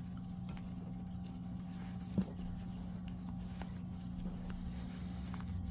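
Steady low hum with faint handling noises of crocheted yarn pieces being fitted together, with a few soft ticks, one a little louder about two seconds in.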